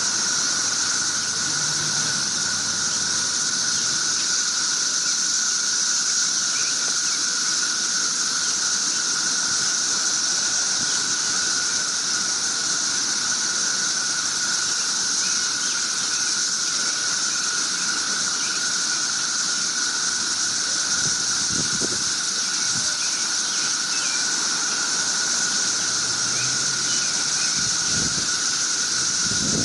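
Loud chorus of cicadas droning without a break, at two pitches together: a high shrill band and a lower one.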